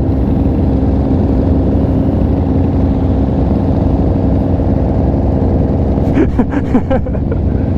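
Sport motorcycle engine running at steady revs, its pitch holding level, with a brief voice about six seconds in.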